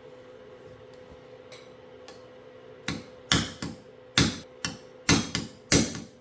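A hammer tapping on metal: a run of sharp, ringing knocks about two a second, beginning about three seconds in, over a faint steady hum.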